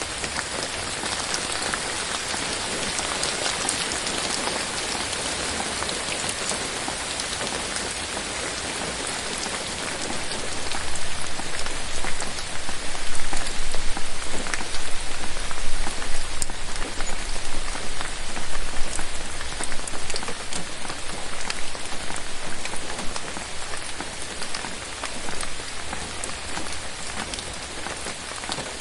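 Steady rain falling in a forest, a dense hiss with many separate drops landing close by. It grows louder and more uneven about ten seconds in, then eases near the end.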